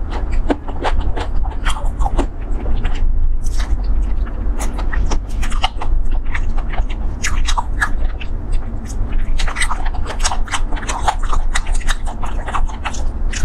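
Close-up eating sounds of a chicken foot being nibbled and chewed: irregular wet mouth clicks and smacks as the skin is bitten off the small bones, over a steady low hum.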